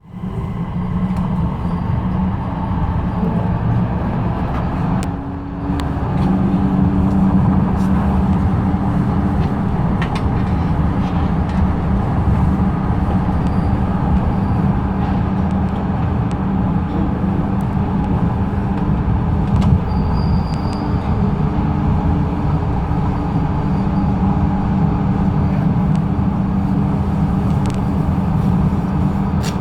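Busan Metro Line 4 rubber-tyred light metro train running along its guideway: a steady rumble with a few held low motor tones, easing briefly about five seconds in.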